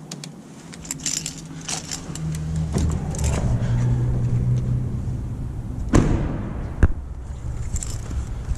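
Keys jangling and clinking for the first few seconds. A low steady rumble sets in, then two sharp knocks follow about a second apart.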